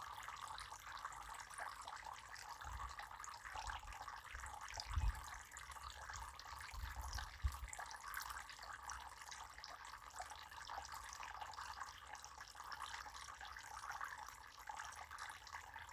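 Water running freely, a steady, faint splashing rush. A few low thumps come in the first half, the loudest about five seconds in.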